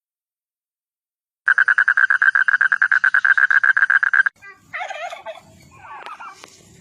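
A bird's rapid rattling call, about fourteen pulses a second at one steady pitch, lasting nearly three seconds and starting about a second and a half in. It is followed by fainter, uneven calls and a few clicks.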